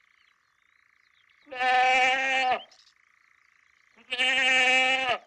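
Two long bleats of a sheep or goat-type farm animal, about a second each and a couple of seconds apart, each held at a fairly steady pitch and dropping at the end. A faint, steady high buzz runs underneath.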